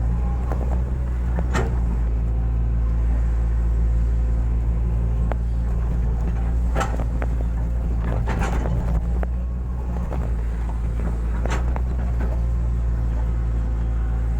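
Hitachi excavator's diesel engine running steadily, with a few sharp knocks at intervals, the clearest about a second and a half in, near the middle and a few seconds before the end.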